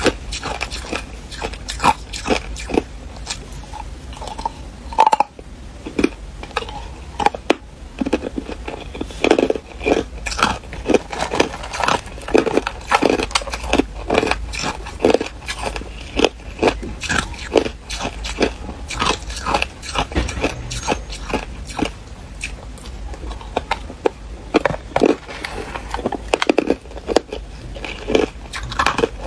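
A person biting and chewing ice close to the microphone: rapid, sharp crunches and cracks, several a second, with no break.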